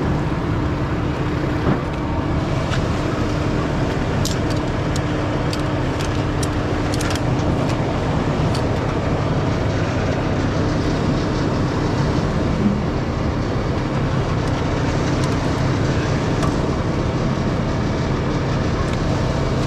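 Heavy truck's diesel engine running steadily, with a constant hum and a few light clicks and ticks about a third of the way in.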